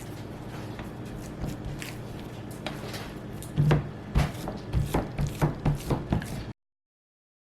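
A steady low hum, then from about three and a half seconds a quick run of light knocks and clatters, roughly three a second, cut off abruptly near the end.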